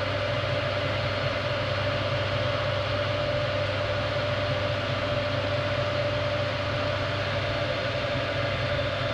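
Metal lathe running steadily, a constant hiss with a steady mid-pitched whine and a low hum.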